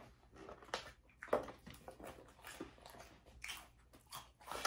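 Chewing and crunching on a mouthful of lettuce salad in irregular crisp bites, with a fork scraping and clicking in a plastic salad bowl.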